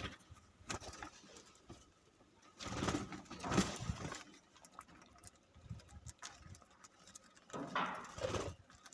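Birds calling in a small aviary, with two louder, low cooing calls, one about three seconds in and one near the end, over faint chirps.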